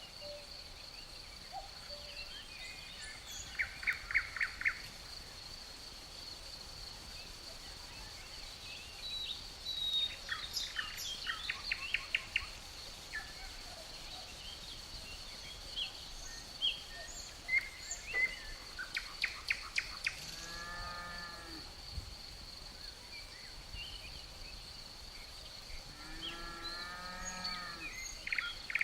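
Forest ambience: crickets trilling in one steady high note, with songbirds chirping in short rapid trills now and then. Twice, about two-thirds of the way in and again near the end, a low drawn-out animal call sounds, like a cow mooing.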